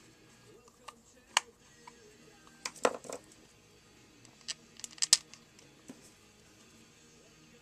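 Scattered small clicks and taps of an electric hair clipper's parts being handled and fitted back together, the loudest in a cluster about three seconds in and another about five seconds in, over faint background music.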